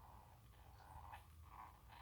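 Faint, short calls from an Indian ring-necked parrot, about four in a row.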